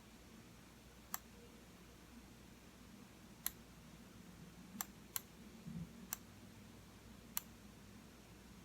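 Computer mouse button clicking: six sharp single clicks at uneven intervals, over a quiet room's faint low hum. There is a soft low bump shortly before the fifth click.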